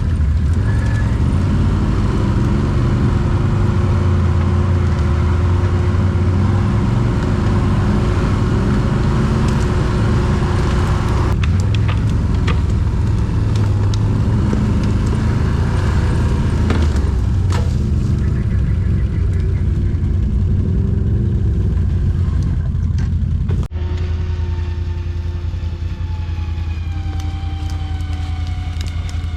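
ATV engine running under load, its note rising and falling, with a few knocks. About 24 s in the sound breaks off abruptly and resumes as a steadier engine note.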